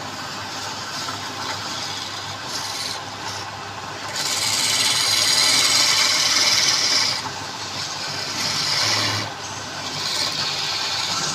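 Wood spinning on a woodturning lathe with a tool scraping against it: a steady rasping hiss that grows clearly louder from about four to seven seconds in, then eases with smaller swells.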